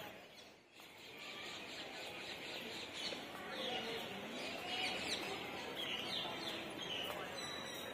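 Birds chirping in short, repeated high calls, mostly in the latter part, over a faint steady hum of open-air background with distant voices.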